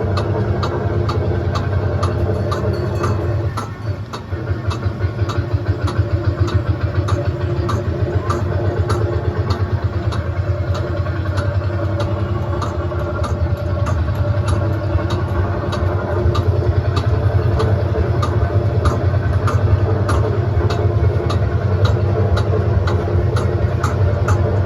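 Tractor engine running steadily under a ride, with a regular sharp click about twice a second. The engine briefly drops off about three and a half seconds in, then picks up again.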